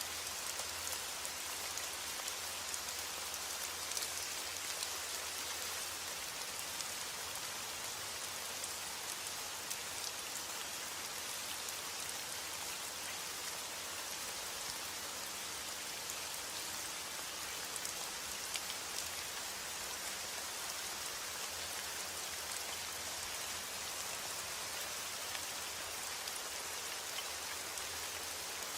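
Steady heavy rain falling on a roof, an even hiss dotted with the ticks of single drops.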